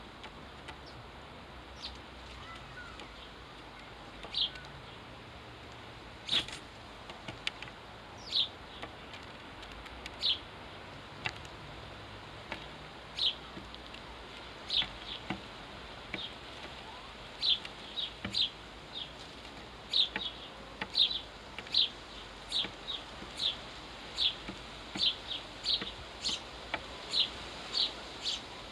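Sparrows chirping: short, single high chirps repeated over a faint steady hiss, spaced out at first and coming faster, about two a second, in the second half.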